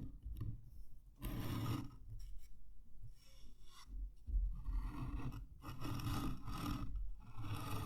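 Scraping and rubbing on wood, in about five separate strokes of under a second each with short pauses between them.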